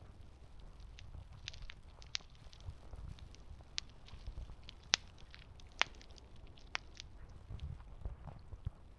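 Wood campfire crackling: irregular sharp pops and snaps, the loudest about five seconds in, over a low steady rumble of the burning fire.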